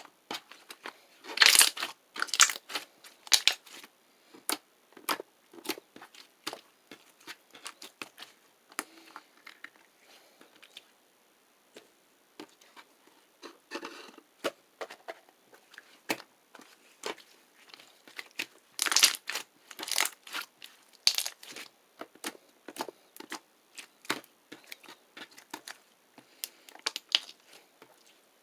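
Irregular crinkling and crackling: a long run of sharp clicks and crunches, densest and loudest about a second and a half in and again around twenty seconds in.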